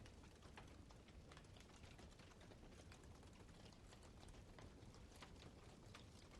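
Faint crackling of a wood fire: small irregular pops and snaps, several a second, over a low steady background.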